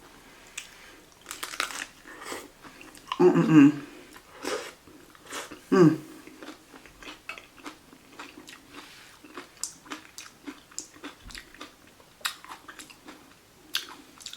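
Close-up chewing and crunching of a crisp taco shell with vegetable filling, many small crackling bites, with two short vocal sounds about three and six seconds in.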